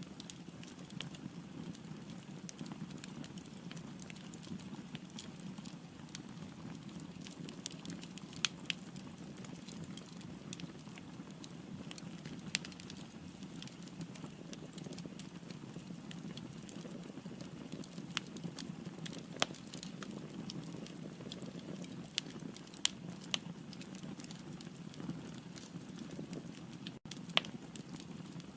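Wood fire burning in a fireplace: a steady low rush of flame with frequent small crackles and a few sharp, louder pops of the burning firewood.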